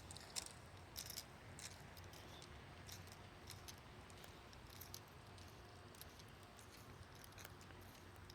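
Near silence with faint, scattered crackling clicks, a few a little louder in the first second or two: footsteps on a wooded path.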